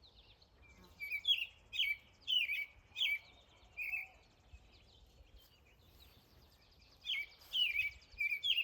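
A songbird singing: a run of short, quickly repeated chirping notes for about three seconds, a pause, then another run near the end.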